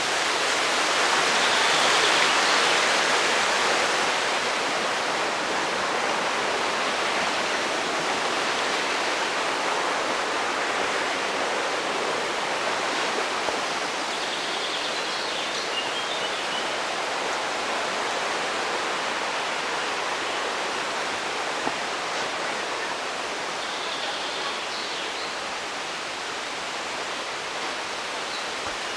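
Rushing water of the Mostnica stream flowing through its gorge: a steady, full rush that swells slightly about two seconds in.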